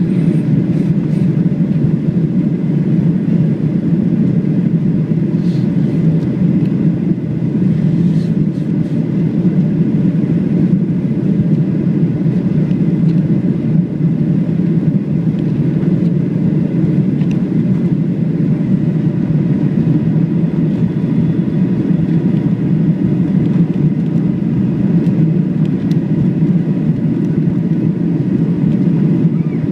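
Steady, loud drone inside the cabin of a Boeing 737-700 in flight: its CFM56-7B turbofan engines and the airflow, unchanging throughout.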